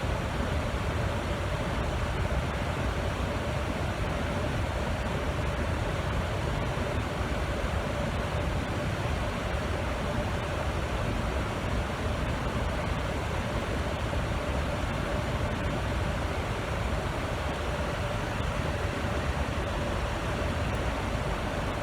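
Steady whir of a fan blowing air, with a constant hum running through it.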